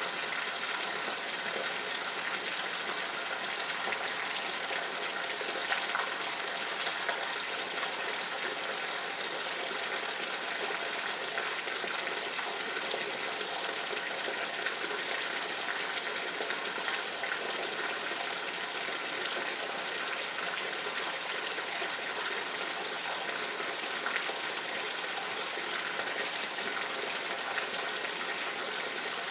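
Heavy rain pouring steadily onto leafy trees: a constant hiss with a few louder drops now and then.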